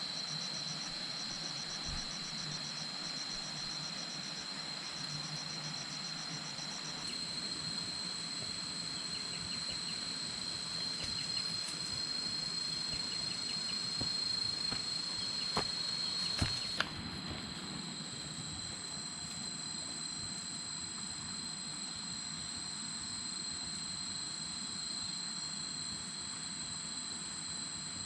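Forest insect chorus: a steady, high-pitched buzzing drone of several insects over a background hiss, with a pulsing trill in the first few seconds. There are a few sharp clicks a little past halfway.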